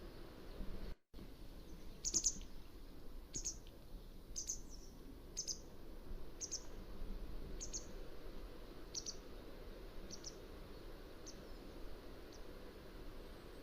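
Mountain wagtail giving a series of short, high calls about a second apart, growing fainter toward the end, over a steady low background noise.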